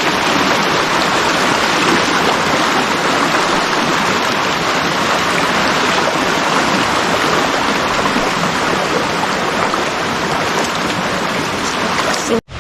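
Fast-flowing water rushing steadily. The sound cuts off abruptly near the end.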